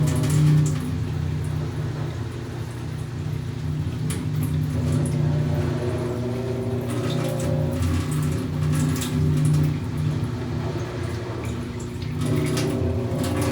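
Panasonic 12 kg top-loading washing machine running its wash cycle: a low motor hum that switches on and off every second or so as the drum or agitator turns back and forth, with water sloshing.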